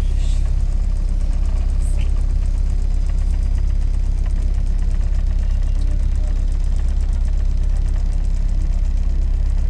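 Tour boat's engine running steadily, a constant low drone.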